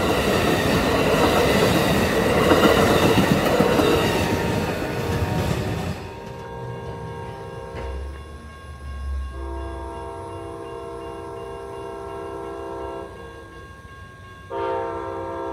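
Amtrak bilevel passenger cars rolling past a grade crossing, a loud rush of wheel and rail noise that cuts off about six seconds in. After a quieter stretch a train horn sounds a long chord blast of about four seconds, then a second blast begins near the end.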